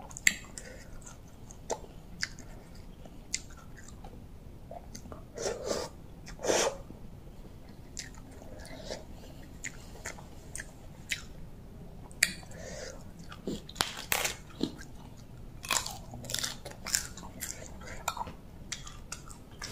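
Close-up chewing and biting of a spicy pounded rice-noodle salad eaten by hand: irregular wet mouth clicks and smacks, with a few louder bursts in the middle and toward the end.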